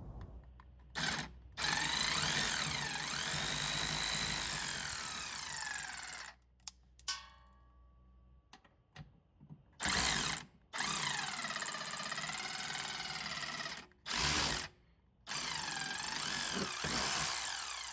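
Cordless power tool driving a 12 mm socket on an extension, backing out an exhaust hanger bolt. It runs in several spurts of motor whine that rises and falls in pitch as the trigger is worked, with short blips and pauses between them.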